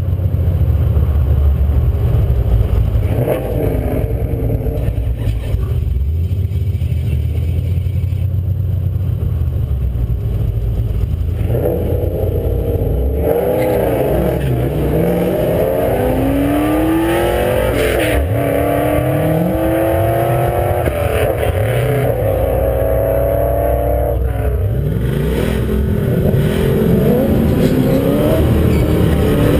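2010 Chevrolet Camaro engine idling with a steady low rumble. From about twelve seconds in, other drag cars' engines rev and accelerate, their pitch climbing and dropping repeatedly through gear changes, and they rise again near the end.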